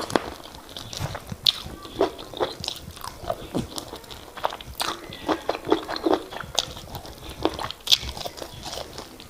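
Close-miked eating of semolina fufu with oha soup: wet chewing and irregular sharp mouth smacks.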